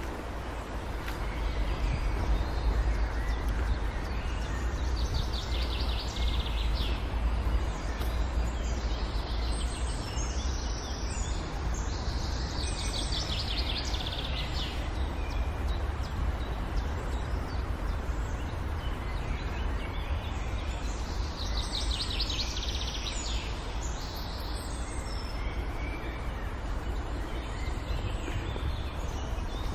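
Birds calling in several short bouts of rapid, rattling trills over a steady low rumble of outdoor background noise.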